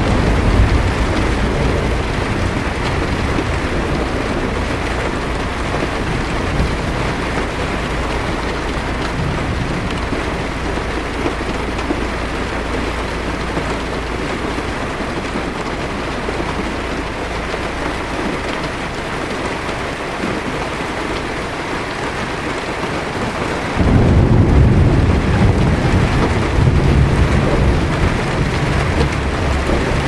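Steady heavy rain falling on a car's windshield and roof, heard from inside. A low thunder rumble fades over the first few seconds, then a sudden, louder peal of thunder breaks in near the end and rolls on.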